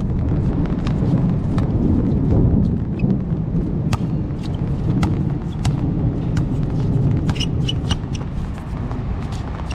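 Heavy rain with a steady low rushing, like wind buffeting the microphone, and many scattered sharp ticks through it.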